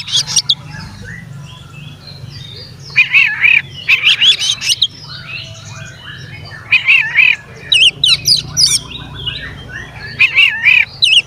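Oriental magpie-robin (kacer) singing vigorously in loud bursts of rapid, varied whistles and trills, with quieter chirps between the bursts. A low steady hum runs underneath.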